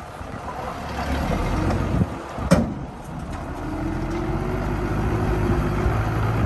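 Heavy construction machine's diesel engine running, with a single sharp knock about two and a half seconds in, after which the engine note rises and holds.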